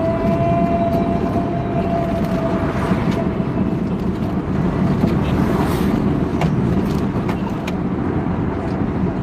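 Road traffic running steadily with a low rumble, a faint whine that sinks slightly and fades over the first two seconds, and a few short clicks.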